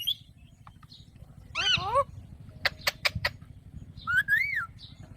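Alexandrine parakeet calling: a short pitched call about a second and a half in, a few sharp clicks around the three-second mark, then one rising-and-falling whistled note about four seconds in.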